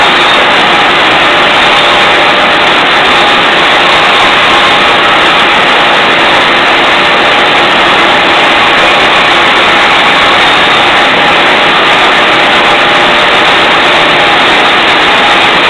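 12-inch Craftsman band saw running, its 3/16-inch blade cutting a circle in 3/4-inch wood as the board turns on a circle jig. The noise is loud and even, with no change throughout.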